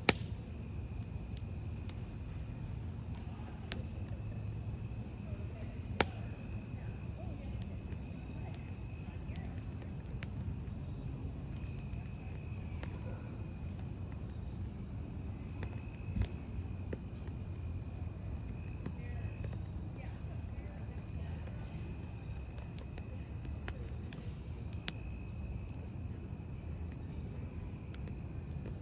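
Crickets chirring steadily over a burning wood campfire's low rumble, with a few sharp pops and cracks from the logs.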